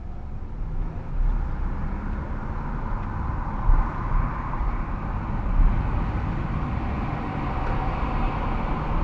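Engine and tyre road noise of a moving car, heard from inside the cabin. It grows louder over the first second or so, then holds steady.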